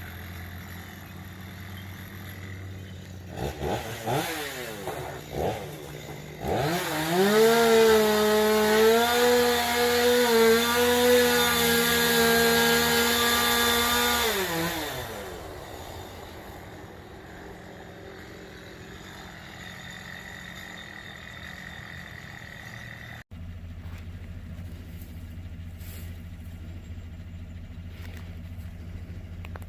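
Vehicle engine revving up from a few seconds in and held at high revs for about eight seconds, then dropping back to a steady low running sound. The sound cuts out for an instant about three quarters of the way through.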